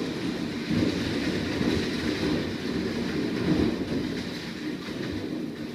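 Heavy downpour: a steady, dense rushing rumble of rain coming down hard, easing slightly near the end.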